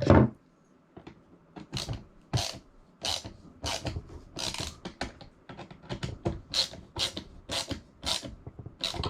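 Repeated short rasping strokes of a hand tool tightening a bolt on the shuttle's mounting bracket, about two strokes a second.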